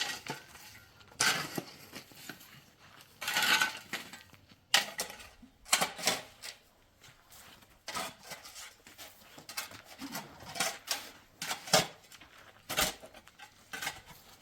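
Irregular clinks and scrapes of hard objects: a dozen or so short strokes spread unevenly, with a couple of longer scrapes.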